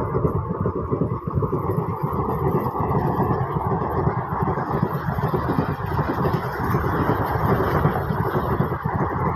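Train passing close by: a steady rumble of wheels on the track, thick with rapid clatter.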